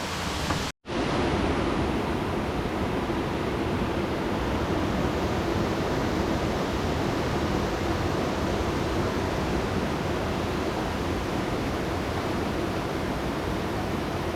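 Rushing river water, a steady even rush, broken by a brief gap of silence about a second in.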